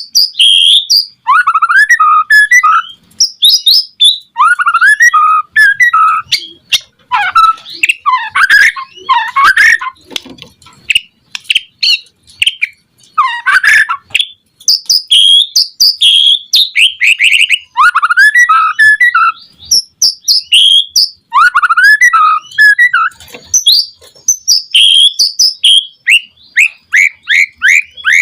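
White-rumped shama (murai batu) singing vigorously: loud phrases of quick, varied whistles and trills, each a second or two long, with short pauses between them.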